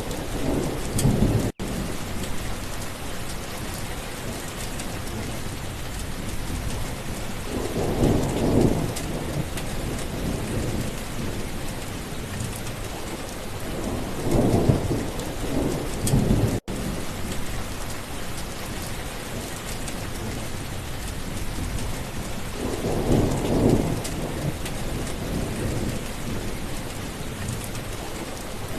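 Heavy steady rain with low rolls of thunder swelling and fading four times, about every seven seconds. The sound cuts out for an instant twice.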